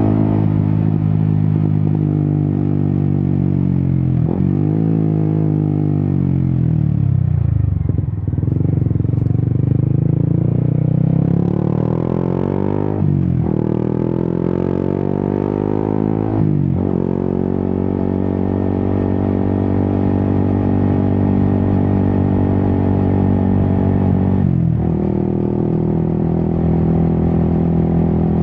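Yamaha XSR 155's single-cylinder engine through an Akrapovic exhaust, ridden on the road. The note sinks as the bike slows, climbs again as it pulls away, and breaks sharply about four times at gear changes, with steady cruising between.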